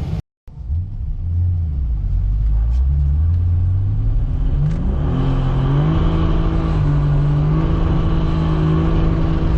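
Turbocharged car engine accelerating, its pitch climbing for a few seconds and rising sharply about five seconds in, then holding a steady speed. The sound cuts out briefly just before it begins.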